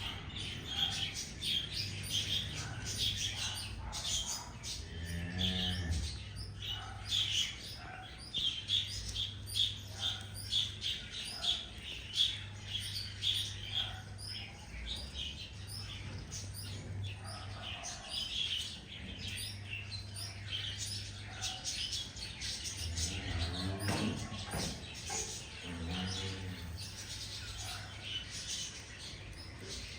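Many small birds chirping rapidly and continuously. A lower, drawn-out call is heard twice, about five seconds in and again around 24 seconds, over a faint low hum.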